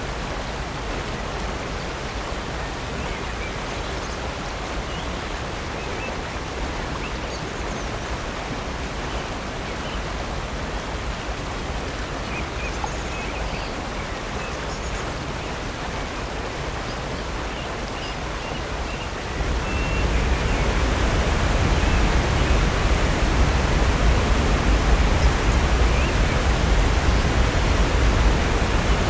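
Steady rush of water from Upper North Falls and Silver Creek, with faint scattered bird chirps above it. About two-thirds of the way through the water sound steps up, louder and deeper.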